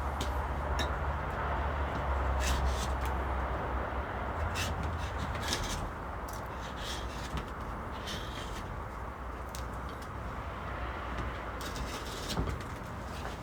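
Carving knife cutting and shaving wood in short, irregular strokes, over a steady low hum that is louder in the first half.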